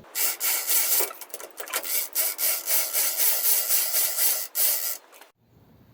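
Lifting gear being worked in quick rasping, rubbing strokes, about three a second, to raise a Ford flathead V8 engine block slung on an old fan belt. The strokes stop abruptly near the end.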